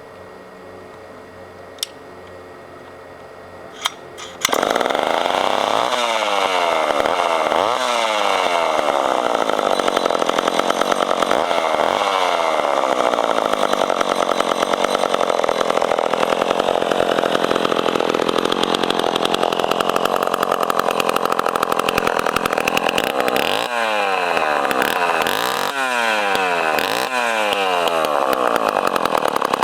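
Two sharp clicks, then about four seconds in a Poulan 306A two-stroke chainsaw engine comes in suddenly and loud. It is revved up and down several times, held at high speed, and blipped up and down again near the end: a restored saw running well.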